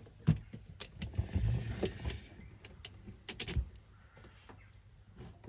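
Clicks and knocks of a Hoover DXOA610AHFN-80 washing machine's door after the door lock releases at the end of the cycle, with a rustle of handling about a second in.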